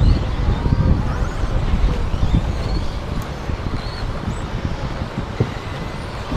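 Wind buffeting the microphone, with faint high whines rising and falling from RC stadium trucks' electric motors running on the track.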